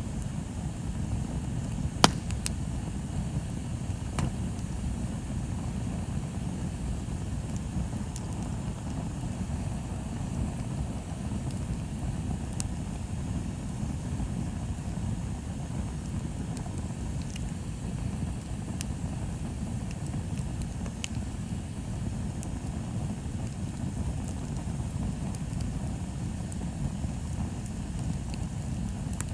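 Bonfire burning: a steady low rumble with scattered sharp crackles and pops from the fire, the loudest pop about two seconds in.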